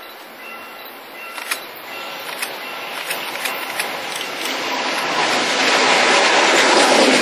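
Korail Mugunghwa passenger train, hauled by an electric locomotive, approaching and growing steadily louder. Sharp wheel clicks over the rails begin about a second in, and the wheel-on-rail rumble and hiss swells to its loudest as the locomotive draws level, in the last couple of seconds. A repeating tone fades out about a second in.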